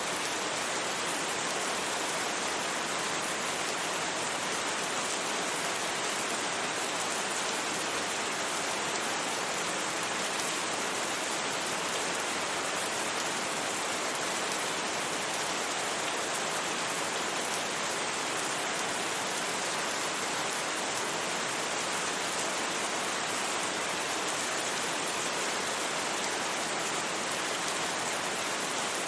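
Steady rain falling and pattering on surfaces, a continuous, even hiss with no thunder.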